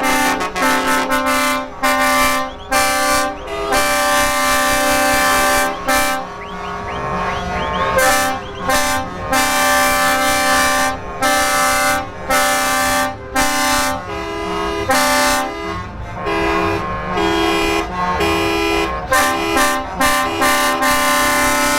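Truck air horns sounding a long series of blasts, short and long, separated by brief gaps, with the pitch stepping between a lower and a higher note.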